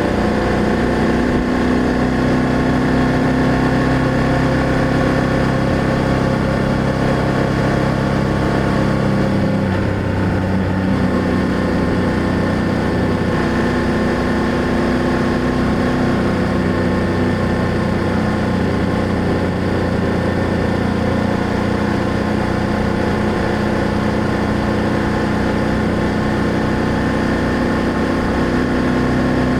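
BMW F800GS parallel-twin motorcycle engine and exhaust running steadily under way, with a brief dip in the engine note about ten seconds in.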